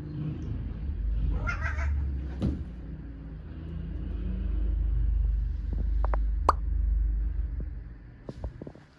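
A cat gives a single short meow about a second and a half in, over a low steady rumble. A few sharp clicks follow later.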